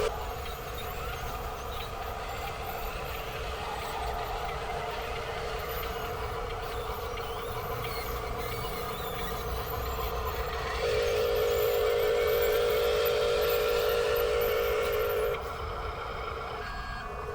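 Small electric motors and plastic gearboxes of radio-controlled toy construction vehicles whirring. A louder steady whine comes in sharply about eleven seconds in and cuts off about four seconds later.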